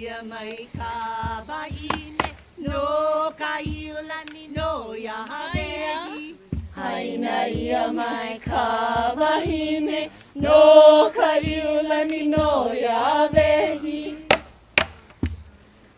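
Hawaiian hula chant sung in Hawaiian over a drum struck on a steady beat, about two strokes a second. The voices stop near the end, leaving a few sharp drum strokes.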